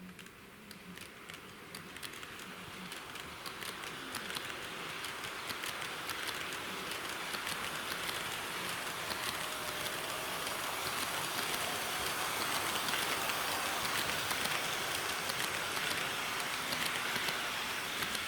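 HO-scale model diesel railcar running on track: a steady rattling hiss of wheels and motor with fine rail-joint clicks, growing louder as it comes closer.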